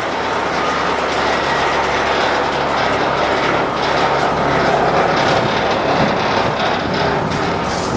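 International DT466 MaxxForce diesel of a 2009 International 4300 box truck running, under a loud, steady rush of noise. Its low drone fades about halfway through.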